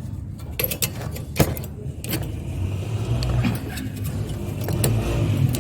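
Metal clinking and scraping as the magnetron's tight metal plates are worked loose with a screwdriver, with sharp clicks over a steady low rumble.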